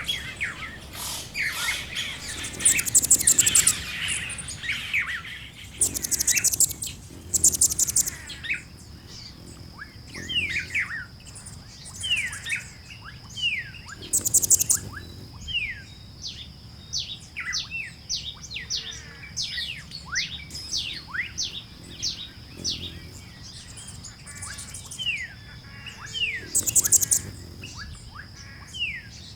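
Background chorus of several wild birds: many quick, sharp, downslurred chirps, broken by a few loud, rapid high trills. A steady high thin whine joins about eight seconds in.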